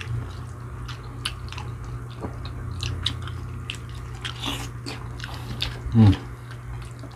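Close-up eating sounds of fried chicken: crisp bites and chewing, with many small crunches and mouth clicks over a steady low hum. A brief voiced sound from the eater comes about six seconds in.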